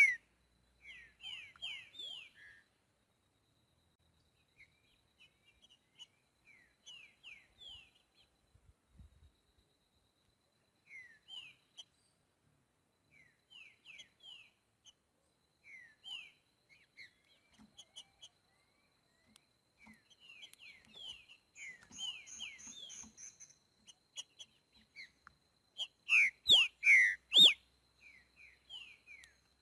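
Green-winged saltator (trinca-ferro) singing. Soft, short falling chirps are scattered throughout, and a loud burst of several strong song notes comes about 26 seconds in.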